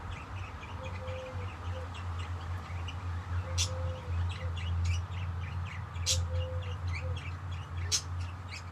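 Budgerigars chattering in quick, high twittering chirps, with a few louder sharp calls, over a steady low hum.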